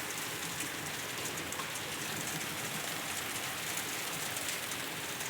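Hail falling steadily, a dense even patter of ice pellets striking the ground.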